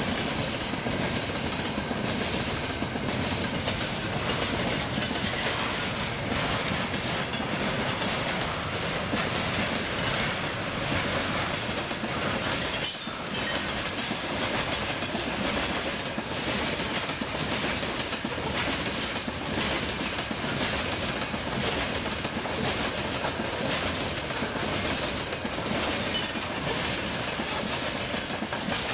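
Railway cars rolling past, their wheels clattering steadily over the rail joints, with some wheel squeal. The loudness barely changes, apart from a brief dip about 13 seconds in.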